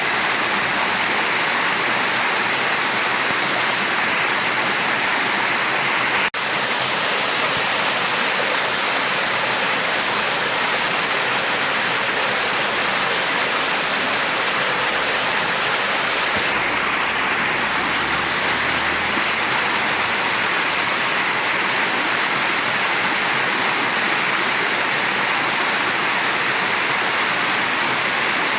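Mountain stream rushing and splashing over rocks: a steady, dense water noise with a momentary dip a little after six seconds in.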